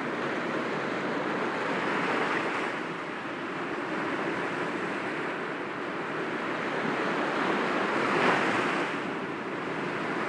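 Sea waves washing against rocks in a continuous wash of surf. Two larger waves break, about two seconds in and again about eight seconds in.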